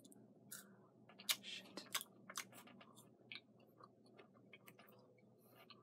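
A person chewing a mouthful of Kit Kat wafer bar: soft, irregular crunches and mouth clicks, faint and close.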